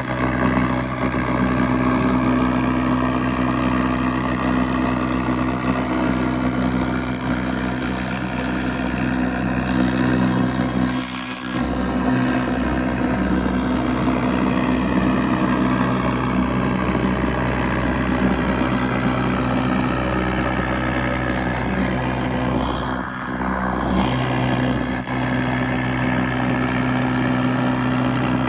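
Steady machine drone with a strong low hum and several steady tones, some drifting slowly in pitch, briefly dipping about eleven seconds in and again near twenty-three seconds.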